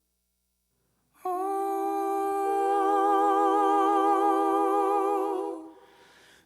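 About a second of silence, then a voice humming one long held note with a slight waver, fading out near the end; it is the opening of a recorded song.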